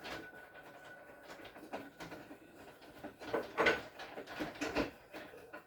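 Scattered knocks and clatters, loudest a little past the middle, over a faint steady high tone.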